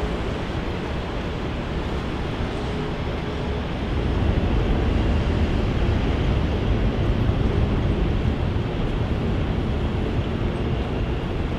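Jet airliner engine noise at an airport: a steady, broad roar heavy in the bass that grows louder about four seconds in and holds.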